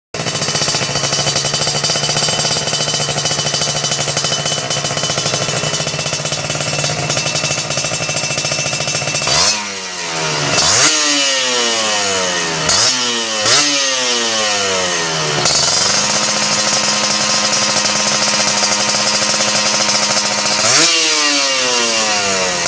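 Kawasaki Ninja 150 R two-stroke single-cylinder engine running through a GJR aftermarket exhaust. It idles steadily, is revved sharply four times about halfway through with each rev falling back to idle, then idles again and is revved once more near the end.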